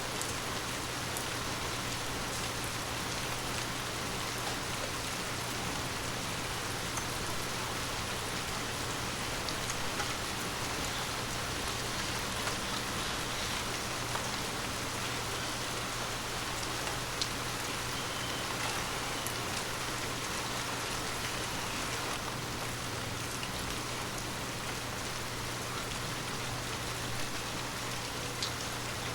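Steady rain falling on forest leaves, an even hiss with scattered single drops ticking now and then.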